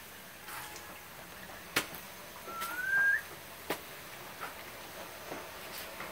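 Corn tortillas frying into tostadas in a large pan of hot oil: a steady sizzle with a couple of sharp pops. About two and a half seconds in, a single short whistled note rises in pitch and is the loudest sound.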